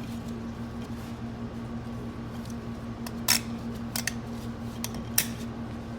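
Snap ring (C-clip) being fitted into its groove over an automatic-transmission clutch pack: a few sharp metallic clicks, the two loudest about three and five seconds in, over a steady hum.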